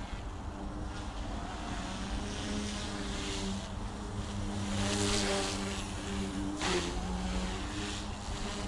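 Goosky S1 collective-pitch RC micro helicopter in flight: its motors and rotor blades hum at a fairly steady pitch that swells a little around the middle, with gusts of wind noise on the microphone.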